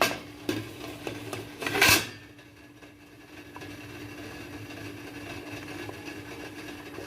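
Cookware being handled as a plate of chicken goes into a steamer: a few clatters, then a short loud scraping rush just before two seconds in. After it a steady faint hum with a constant tone.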